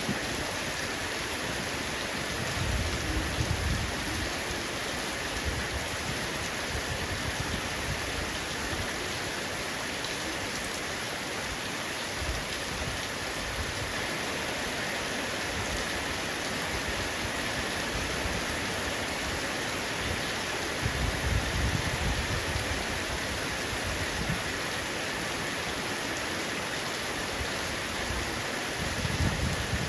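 Heavy rain falling on a roof, a steady dense hiss of raindrops. Low rumbles swell briefly a few seconds in, again about two-thirds of the way through, and near the end.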